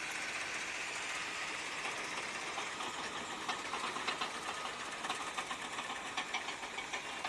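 Heavy earthmoving machinery running steadily, with rapid, irregular mechanical clicking and clattering joining in a few seconds in.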